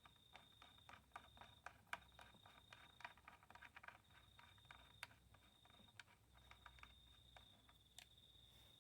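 Faint rapid clicking of a socket-set ratchet, in quick runs, as the 10 mm bolts holding the recoil starter are done up. A steady, faint high-pitched tone runs underneath.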